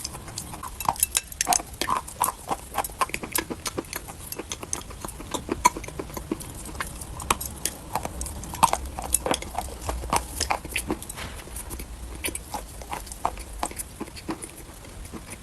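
A person biting and chewing dry chalk close to the microphone: a continuous run of irregular, crisp crunches and clicks, several a second.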